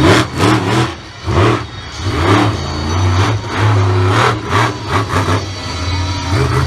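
Monster truck engine revving in repeated sharp bursts of throttle over a low running note.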